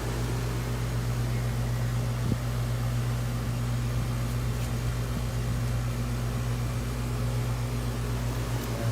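Steady low machine hum with a constant pitch, with a single short click about two seconds in.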